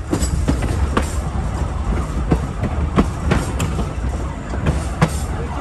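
Passenger train running along the track: a steady low rumble with irregular sharp clicks and knocks from the wheels on the rails.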